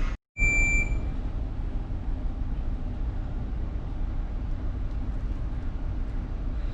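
Steady low rumble of a ship's engine and machinery, with a short electronic beep about half a second in.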